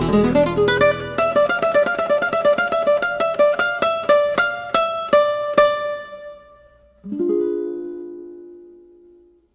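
Instrumental music: a plucked string instrument picks a run of quick notes for about six seconds. About seven seconds in, a single chord is struck and left to ring out.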